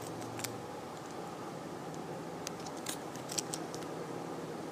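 A few light, sharp clicks and taps from handling a small tin, most of them bunched together in the second half, over a steady low hum.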